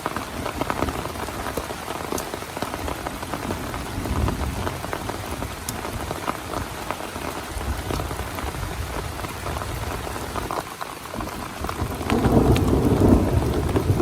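Heavy rain falling steadily on a tent, a dense hiss of drop impacts. About twelve seconds in, a low rumble of thunder swells up and becomes the loudest sound.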